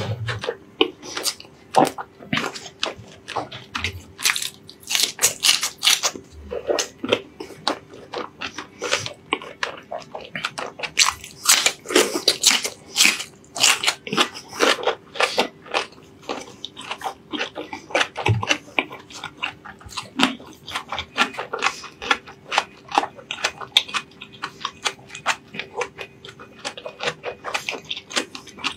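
Close-miked mouth sounds of a man chewing a mouthful of fatty braised pork belly and rice: an irregular, continuous run of sharp smacks and clicks.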